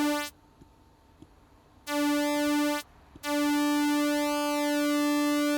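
Sylenth1 soft-synth pulse wave, made from two saw waves with one inverted, playing a single held note while an LFO slowly sweeps its pulse width, so the tone keeps shifting. The note stops just after the start, sounds again for about a second, then holds from about three seconds in.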